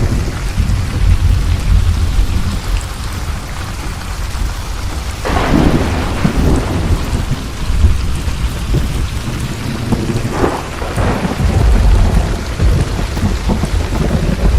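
Thunderstorm: steady rain with continuous low rolling thunder, and sharper thunder cracks about five seconds in and again about ten seconds in.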